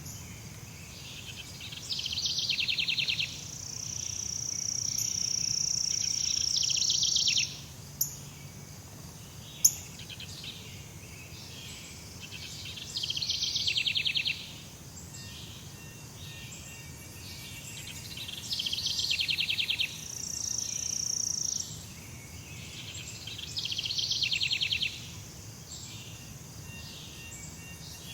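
Jungle wildlife ambience: rapid buzzing trills of birds or insects repeat about every five seconds over a low steady background hum. A long high steady note sounds twice. Two sharp clicks come a few seconds apart about a third of the way in.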